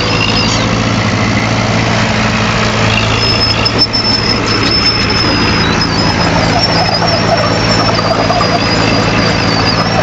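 Heavy tracked earthmoving machine's diesel engine running steadily, with a continuous high-pitched squeal that wavers slightly in pitch.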